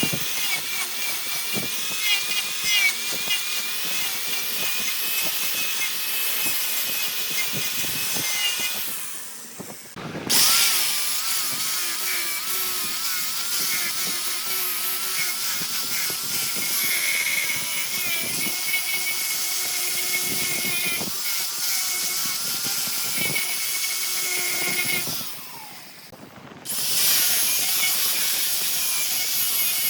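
Wood lathe spinning a log while a turning tool cuts into it: a steady scraping hiss with a wavering high whine. The sound drops away briefly twice, about nine and twenty-five seconds in.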